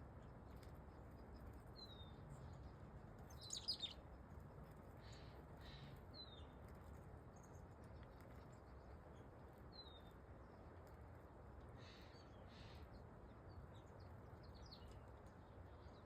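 Small backyard songbirds chirping now and then: short, high, falling chirps, with a louder quick run of several calls about three and a half seconds in, over a faint low background rumble.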